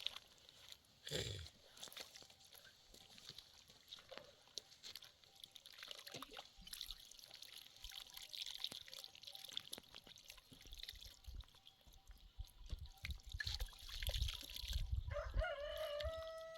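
Faint scattered clicks and small knocks with a low rumble. Near the end comes one drawn-out animal call with a fairly steady pitch.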